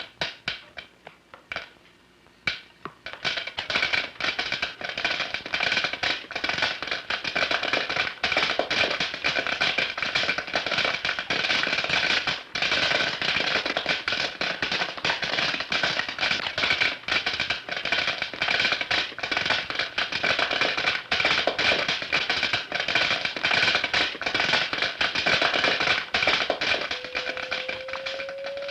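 Rapid clicking, a few separate clicks at first that build within about three seconds into a dense, continuous crackle of clicks. Near the end a single rising tone starts.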